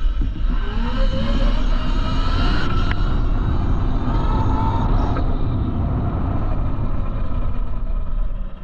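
QS138 70H mid-drive electric motor whining as the dirt bike accelerates hard, its pitch climbing over the first few seconds. Heavy wind rush on the microphone.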